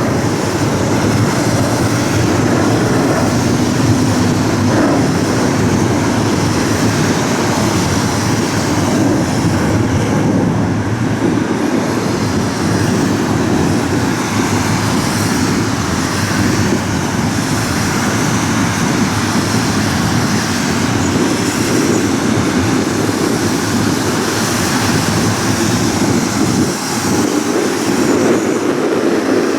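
Jet engine noise from a British Airways Boeing 787-9 Dreamliner with Rolls-Royce Trent 1000 engines on its landing rollout just after touchdown: a loud, steady rush that holds level throughout.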